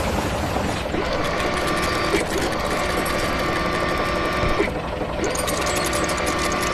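Rapid mechanical rattling with a steady whine, changing character every couple of seconds: a machinery sound effect.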